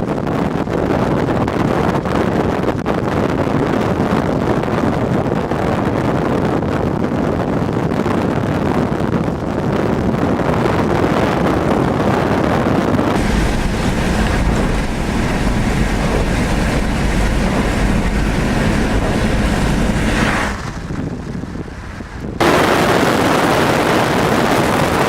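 Steady rush of heavy rain and wind, with wind buffeting the microphone from about halfway through. The sound dips briefly near the end, then comes back suddenly.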